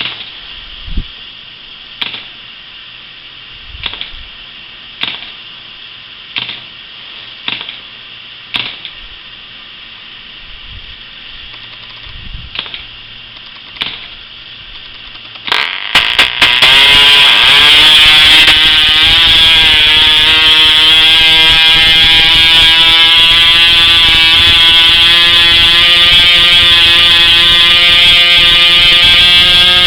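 Vintage 1940s .074 glow-plug model airplane engine being flipped over by its propeller, with about ten short slaps over the first fifteen seconds. Then it catches about fifteen seconds in, climbs in pitch for a couple of seconds and runs steadily at a high pitch.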